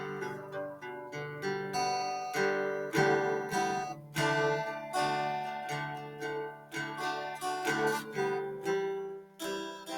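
Background music played on acoustic guitar, plucked and strummed notes at an even pace.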